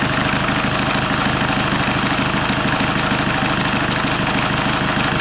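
Hyundai/Kia D4CB 2.5-litre four-cylinder common-rail turbodiesel idling steadily, with an even rhythmic diesel clatter.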